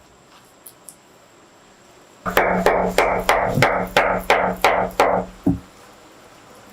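A run of about ten quick, evenly spaced blows, roughly three or four a second, like a tool hammering or chopping, starting a couple of seconds in. One duller knock follows about half a second after they stop.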